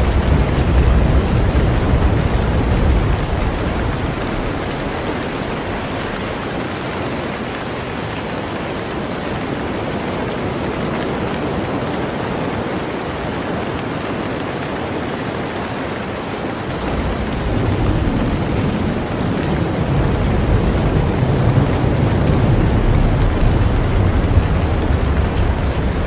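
Heavy rain falling steadily on a boat, an even hiss. A deep low rumble underneath fades out a few seconds in and returns suddenly about two thirds of the way through.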